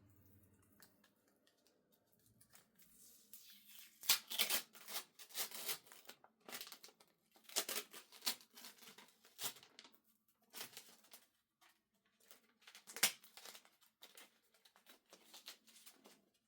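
Clothes rustling and swishing as they are handled, shaken out and folded: a string of uneven brushes of fabric, the sharpest about four seconds in and again near thirteen seconds.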